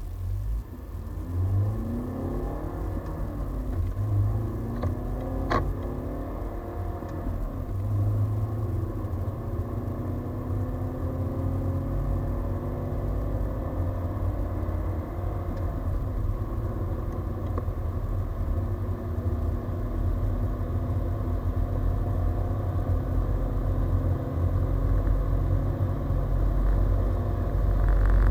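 BMW 320d's 150 hp four-cylinder turbodiesel accelerating hard through a manual gearbox. The engine note climbs in pitch in each gear and drops back at every shift: quick shifts in the first few seconds, then long pulls in the higher gears. A heavy low rumble builds as speed rises.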